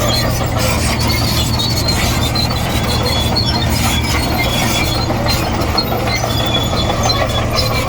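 Komatsu D58E crawler bulldozer working: its diesel engine runs with a steady low drone while the steel tracks clank and give short high-pitched squeaks.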